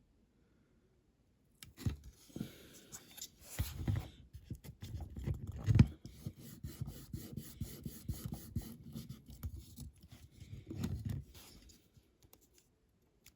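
Close-up bench handwork on a small diecast model: about ten seconds of rustling, scraping, snipping and small clicks as strips of material are worked on it, with one sharp knock about six seconds in.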